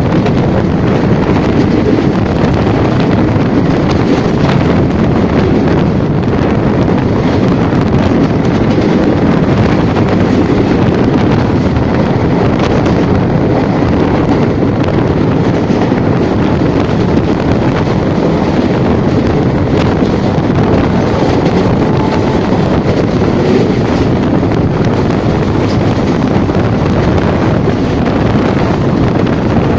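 Steady rushing noise of a train running along, with wind buffeting the microphone.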